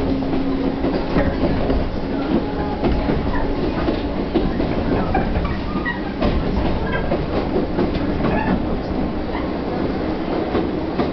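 Chichibu Railway 1000 series electric train heard from inside the car while running: a steady rumble, with wheels clicking and rattling over the rail joints and a faint steady hum underneath.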